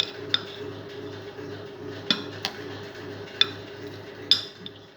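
A utensil clinking against a glass jar, about five sharp clinks spaced unevenly, as garlic and thyme are spooned in for pickling.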